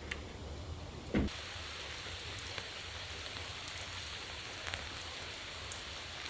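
Steady rain falling, with scattered drops ticking on a surface. About a second in there is a single soft thump.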